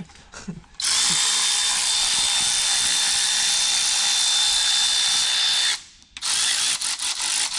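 Handheld electric power tool running at a steady speed with a high, even motor whine, starting about a second in, stopping briefly near the end and then starting again.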